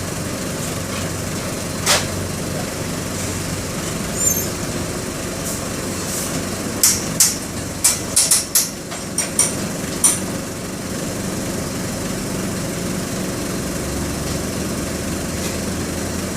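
Mercedes-Benz OM-924 LA four-cylinder inline diesel engine of an OF-1722M bus running steadily, with a string of sharp clicks and knocks in the middle of the stretch.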